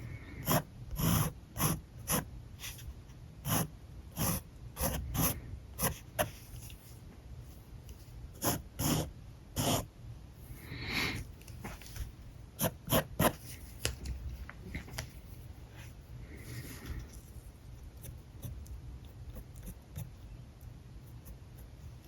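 Alcohol marker strokes on paper: a run of short, scratchy swipes, close together for the first ten seconds or so, then fainter and sparser.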